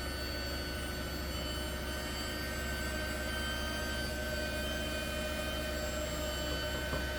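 Heat gun running steadily over wet epoxy resin, a constant high motor whine over a rush of blown air.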